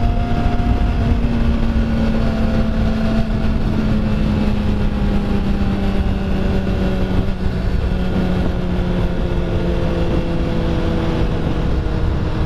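Motorcycle engine running, its note falling slowly and steadily as the revs drop, over a constant rumble of wind on the microphone.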